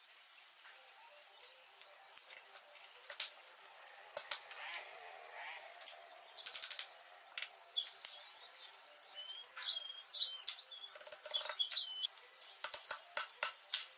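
Scattered sharp clicks and knocks, irregular and denser in the second half, with a steady high thin whine behind them. Short bird chirps come in between about nine and twelve seconds in.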